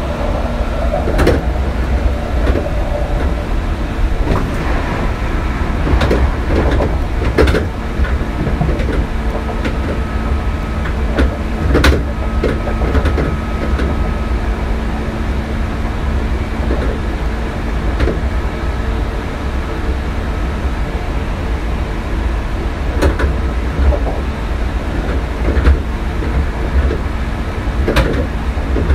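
Hankyu 3300-series electric commuter train running along the line, heard from inside a car: a steady low rumble with a constant hum. Sharp clicks from the wheels on the track come a few times.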